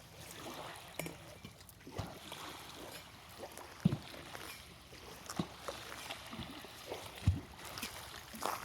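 Small waves lapping on a lake shore, with a few scattered low thumps.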